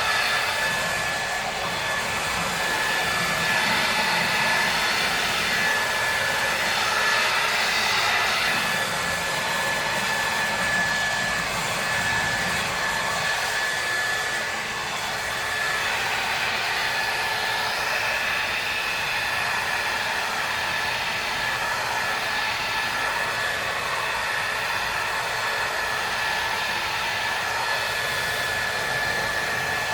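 Ryobi 2000 psi pressure washer running steadily, its spray hissing, with a constant high whine from the machine.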